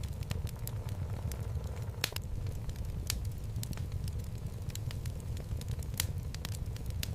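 Wood fire burning in a fireplace: a steady low rumble of the flames with irregular sharp crackles and pops from the burning logs, two of them louder, about two and six seconds in.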